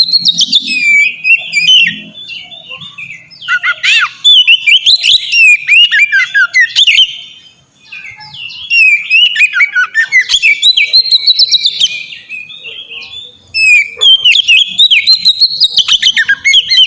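Oriental magpie-robin (kacer) singing loud, full song: rapid runs of varied whistled and chattering notes that sweep up and down, delivered in phrases a few seconds long with brief pauses between them.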